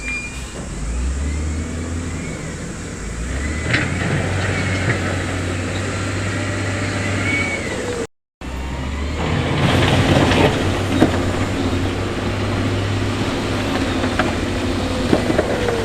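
Diesel engine of heavy construction machinery running steadily, with a few short high squeals. After a brief dropout about halfway through, a rougher clattering noise with scattered knocks sits over the engine, typical of stone being worked by the machines.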